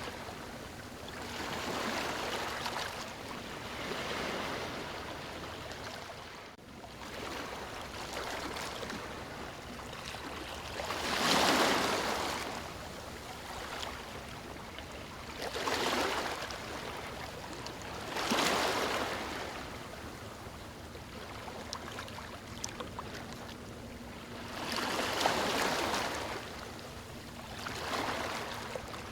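Small waves breaking and washing on a shore: a steady wash of water that swells into louder surges every few seconds, then falls back.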